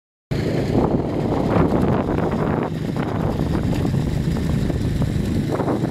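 Small motor scooter engine running while riding, with wind buffeting the microphone.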